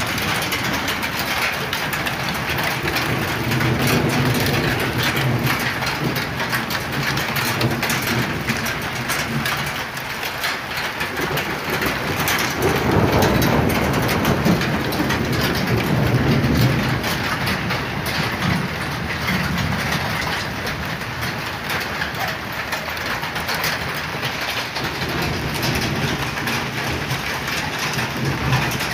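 Heavy rain pouring steadily on trees and ground, with deeper swells of noise building a few seconds in and again a little before midway, loudest shortly after.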